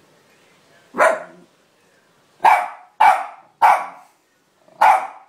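Jack Russell terrier barking, five sharp single barks, the middle three in quick succession about half a second apart.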